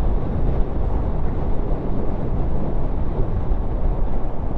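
Wind rushing over a helmet-mounted microphone while riding a Kawasaki motorcycle, with the bike's engine and road noise running steadily beneath.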